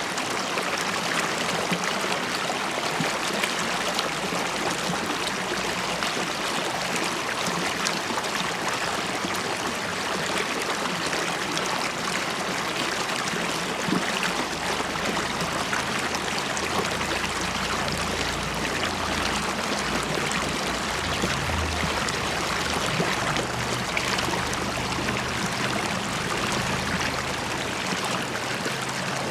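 River water flowing and bubbling steadily over rocks, an even rushing burble.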